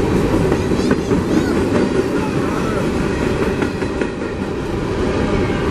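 Coal train's cars rolling past at speed: a steady rumble of steel wheels on rail with clickety-clack over the rail joints.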